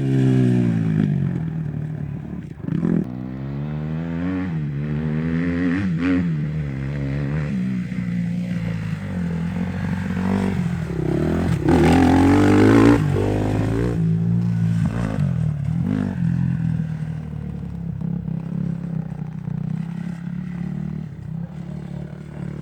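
Husqvarna TE 250 single-cylinder four-stroke dirt bike engine revving up and down as the bike is ridden, its pitch repeatedly climbing and dropping with throttle and gear changes. The strongest burst of throttle comes about twelve seconds in.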